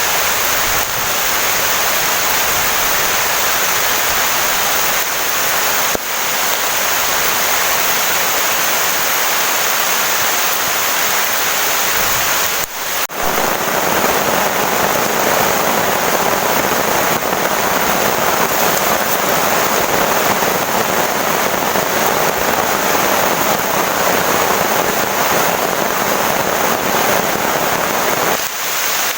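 Heavy rain pouring steadily; about halfway through the sound drops out for a moment and returns slightly fuller.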